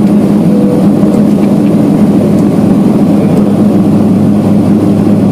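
Steady, loud engine drone heard from inside a vehicle, with an even low hum and no change in pitch.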